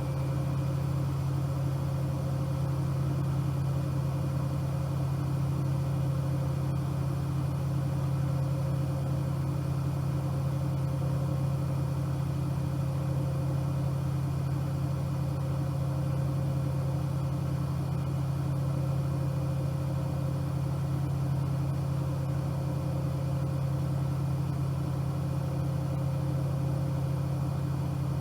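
Bosch Aquasensor WFP3231 washing machine running with a steady low hum that comes up at the start and holds level.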